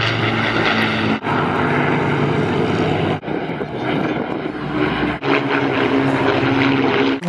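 Propeller aircraft engines running steadily, in short clips that change abruptly about every two seconds, each with its own steady engine pitch.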